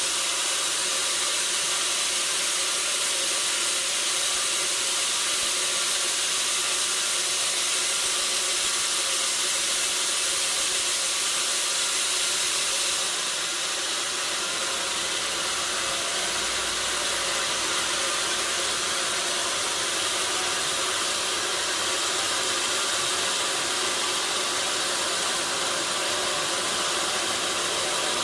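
Sawmill machinery running steadily: a continuous hissing mechanical noise with a faint hum under it, easing slightly about halfway through.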